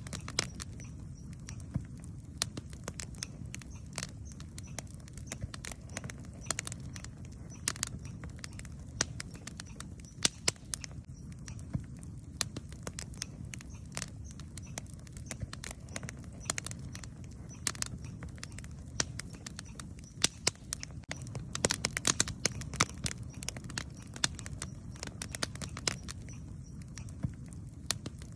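Wood campfire burning: irregular sharp crackles and pops over a steady low rumble, with a denser run of pops a little past two-thirds of the way through.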